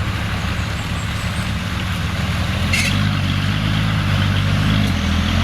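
Off-road 4x4 engine running under load at low revs. The pitch steps up a little about three seconds in as throttle is added, with one short sharp click just before.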